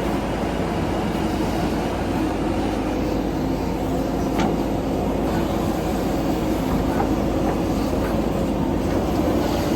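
Tractor diesel engine running steadily under a constant rumble, with a faint click about four and a half seconds in.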